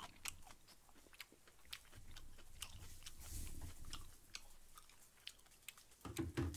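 Close-miked chewing of a mouthful of grilled pork jowl: faint, with many small wet mouth clicks. A few louder, duller thumps come near the end.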